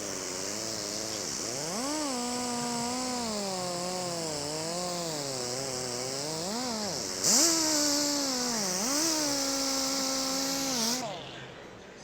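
Angle grinder fitted with a buffing pad, polishing gelcoat at low, varying speed. Its motor whine wavers up and down in pitch over the hiss of the pad on the surface. It gets louder about seven seconds in as it is pressed harder, then winds down and stops about eleven seconds in.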